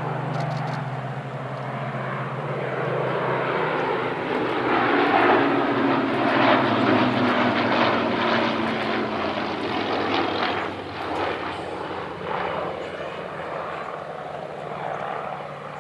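Supermarine Spitfire and Hawker Hurricane piston-engined fighters flying past. The propeller engines grow louder to a peak about halfway through, drop in pitch as they pass, and then fade away.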